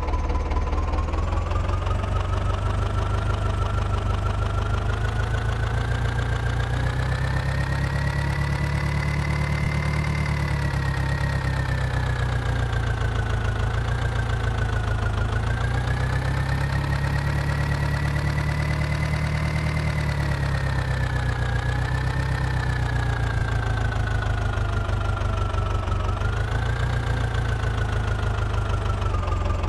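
Heavy diesel engine running steadily, its pitch rising and falling slowly several times as the throttle or load changes, highest about ten and twenty seconds in.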